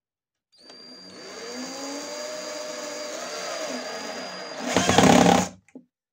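A small electric power tool motor starts and runs for about five seconds with a steady high whine, its lower pitch dipping and recovering as it works. It gets much louder for the last second and then cuts off suddenly.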